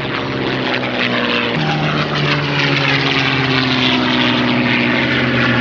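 Propeller airplane's engine running steadily in flight, a steady pitched hum over a rushing noise; the pitch shifts slightly about a second and a half in.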